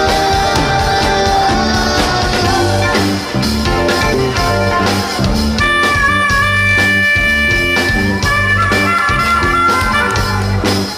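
Band playing a rock instrumental passage: guitar over a steady bass and drum beat, with long held lead notes about halfway through.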